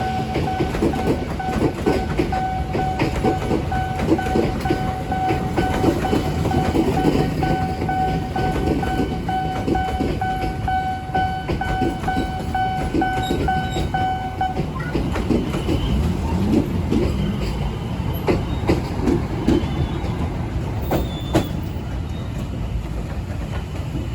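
A passenger train's coaches rolling past, their wheels clattering over the rail joints. A steady high-pitched tone sounds over the clatter and stops about 14 seconds in.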